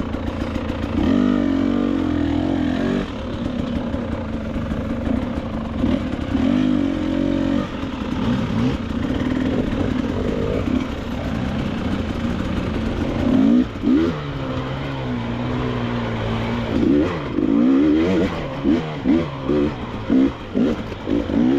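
KTM 300 XC-W two-stroke single-cylinder dirt bike engine revving up and down under changing throttle while being ridden off-road, with a run of quick throttle blips near the end.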